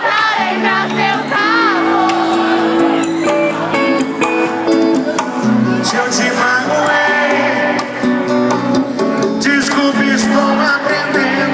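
Live concert music: a singer over strummed acoustic guitar and accompanying instruments, with a wavering vibrato in the voice.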